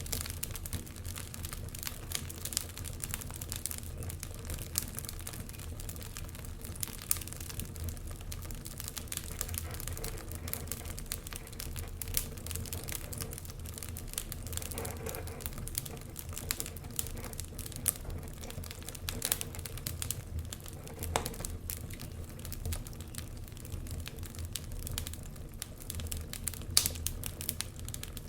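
Wood fire burning in a fireplace: a steady run of sharp crackles and pops over a low rumble, with one louder pop near the end.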